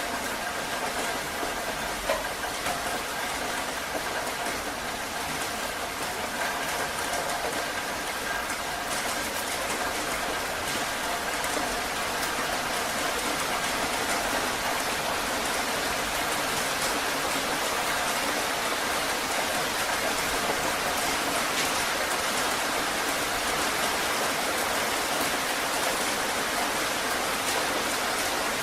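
Heavy rain falling steadily, a dense even hiss of drops. For the first several seconds a faint steady hum sits underneath, and there is a single sharp tick about two seconds in.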